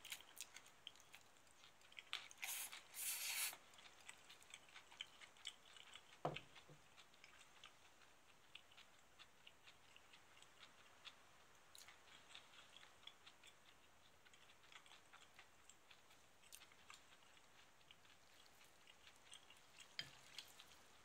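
Quiet, faint chewing of crisp tempura with small mouth clicks, a couple of short crackly bursts about two to three seconds in. A light knock about six seconds in, a dish being set down on the table.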